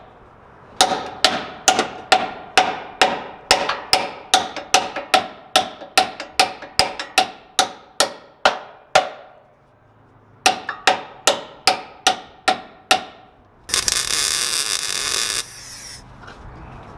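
Hammer blows on sheet steel, about two and a half ringing strikes a second, shaping the bent-in metal patch over a chopped truck body mount. After a short pause there is a second, shorter run of blows, and then a loud burst of hissing noise lasting under two seconds.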